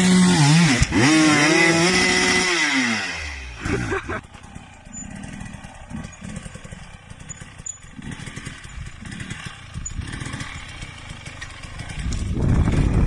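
Dirt bike engine revving hard, its pitch climbing, dipping and climbing again over the first three seconds or so. It then drops to a quieter, rough running with scattered clicks and clatter, and rises louder again briefly near the end.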